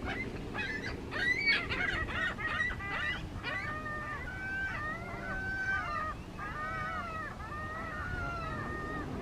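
Several gulls calling over one another. Harsh squawks crowd the first few seconds, then come many repeated rising-and-falling cries.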